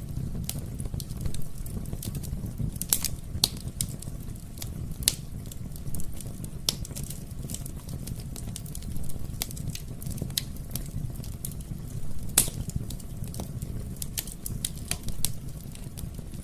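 Wood fire crackling in a fireplace: irregular sharp pops and snaps over a steady low rumble of burning, with the loudest pops about three seconds in and again near twelve seconds.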